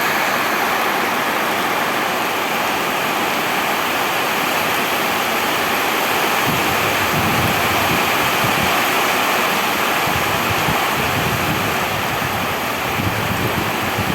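Steady heavy rain falling, an even hiss. From about six seconds in, uneven low rumbles come and go beneath it.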